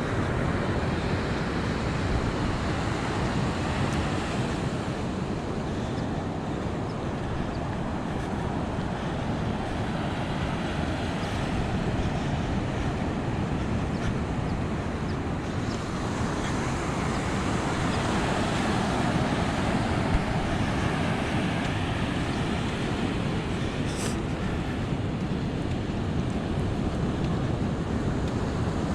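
Ocean surf breaking and washing up the beach: a steady rush that swells now and then, with wind rumbling on the microphone.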